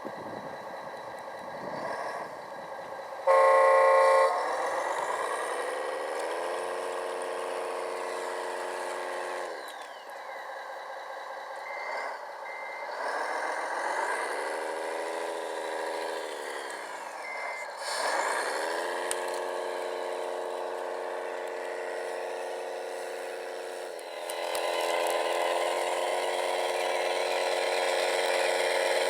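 Radio-controlled model truck running: a loud horn toot about three seconds in, then a motor whine that rises, holds steady and dies away several times as the model drives, with a few short high beeps in between.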